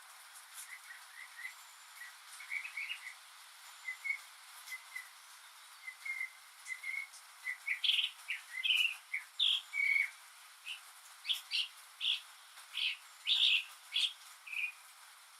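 Northern mockingbird singing: a string of short, varied notes, soft and sparse at first, then louder, quick repeated phrases from about eight seconds in.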